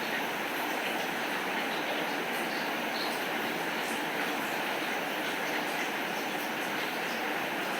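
Steady rain falling, an even hiss with faint scattered ticks.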